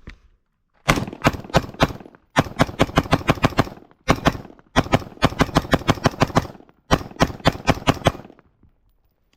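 Rapid gunfire from a magazine-fed firearm: about five strings of shots in quick succession, up to about seven shots a second, separated by short pauses, as the magazine is emptied.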